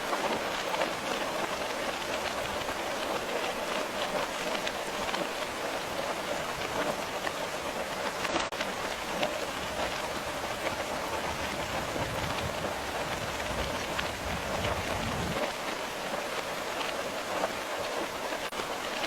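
Steady rain falling and pattering, a continuous even hiss. From about twelve seconds in, a low rumble rises under the rain for about three seconds, then stops abruptly.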